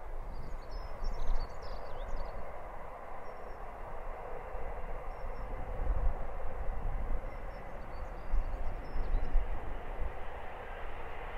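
Distant locomotive-hauled passenger train running along the line, a steady rumble of engine and wheels that swells slightly in the second half. A few short bird chirps come over it near the start and again later on.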